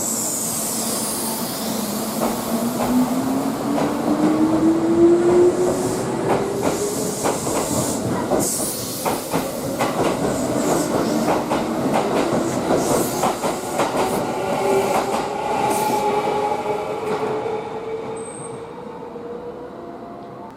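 Kintetsu limited express electric train running through the station. Its wheels click rapidly over the rail joints, under a motor whine that rises slowly in pitch. The sound fades near the end.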